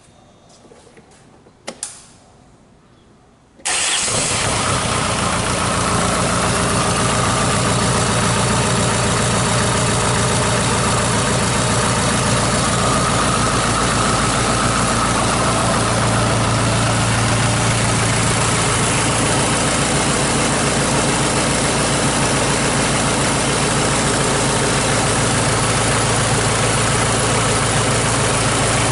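A SsangYong 664950 (D20DT) 2.0-litre four-cylinder diesel, run out of the vehicle, starts suddenly about three and a half seconds in after a few faint clicks. It then idles steadily for an oil-pressure check.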